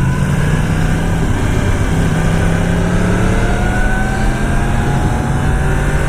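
Yamaha R1 inline-four engine running at low revs, with a steady low hum and higher engine tones that slowly rise in pitch.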